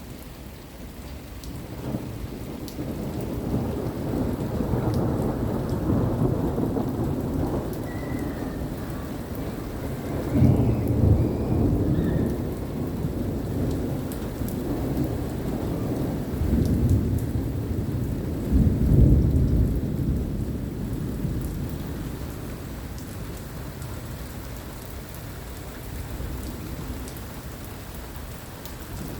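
Thunder rolling for a long stretch after a lightning flash: a low rumble that builds about two seconds in, swells to two loudest peaks, a third and two-thirds of the way through, then dies away. Steady rain keeps falling on surfaces throughout.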